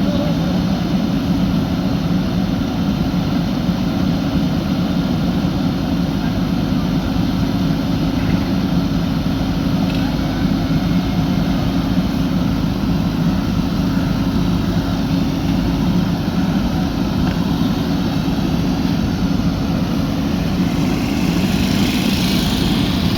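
JCB backhoe loader's diesel engine running steadily under work, a constant low hum.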